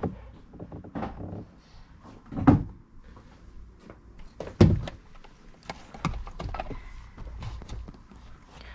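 Thumps and clicks of things being handled, with two louder thumps about two and a half seconds in and again about two seconds later.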